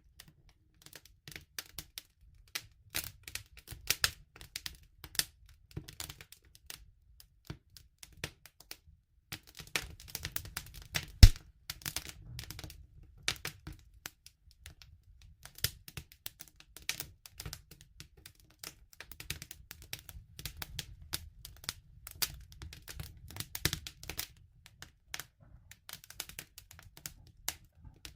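Wood fire crackling: irregular snaps and pops, with one sharp loud pop about eleven seconds in, over a soft low rumble at times.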